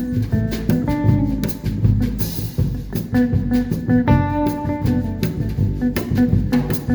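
A jazz trio playing: a plucked guitar line over a drum kit, with a cymbal wash about two seconds in.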